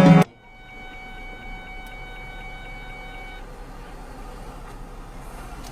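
Music cuts off suddenly just after the start, leaving low, steady road and cabin noise recorded by a dashcam, with a faint steady tone for about the first three seconds.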